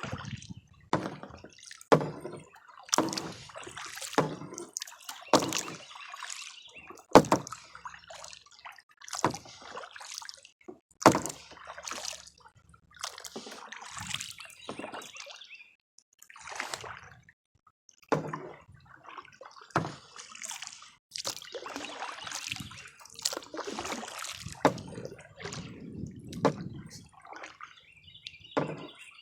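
Kayak paddle working the water: repeated irregular splashes about every second or so, with water trickling and dripping off the blades.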